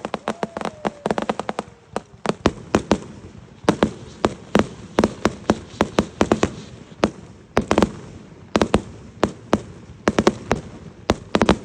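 Aerial fireworks going off in quick succession: a rapid string of sharp bangs and pops, several a second, with a short falling whistle near the start.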